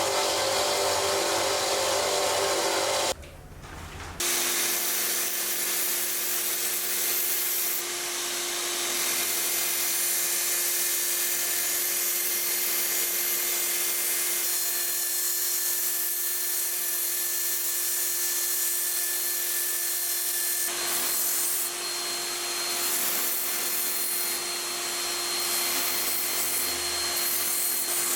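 Electric sander working a wenge-wood knife handle: a steady rasping hiss over a constant motor hum. It drops out briefly about three seconds in, then carries on at a slightly different pitch.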